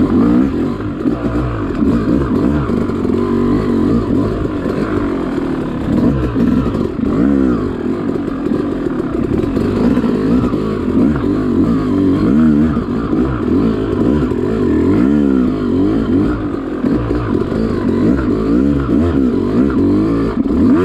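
Yamaha YZ two-stroke dirt bike engine riding singletrack, its pitch rising and falling constantly as the throttle is opened and closed.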